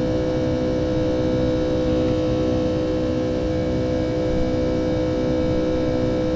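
Boeing 757-200's jet engines heard from inside the cabin, a steady drone with several held tones over a low rumble.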